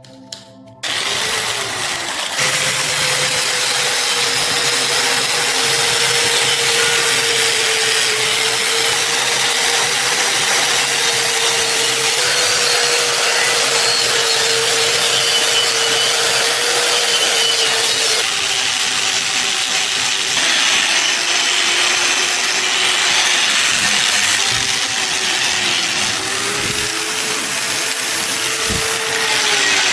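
Electric power tool running on rusty steel: a loud, steady grinding noise over a running whine. The whine sags in pitch for a few seconds past the middle and climbs back near the end as the load on the tool changes.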